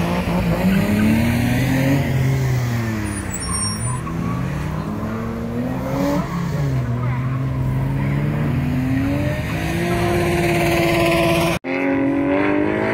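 Porsche 996 Carrera 4S flat-six engine revving up and down over and over through an autocross course, held in a low gear so that the note repeatedly flattens out at the top, near the rev limiter.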